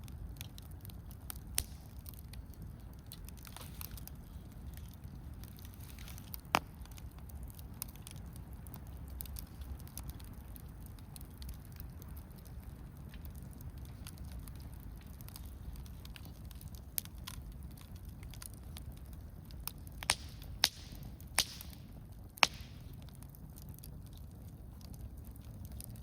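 Wood campfire crackling, with scattered sharp pops over a low steady rumble: a few single pops early on, then a quick run of four pops a little after twenty seconds.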